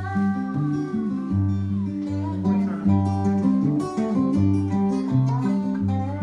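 Acoustic guitar playing an instrumental introduction, plucked and strummed chords over a repeating bass line.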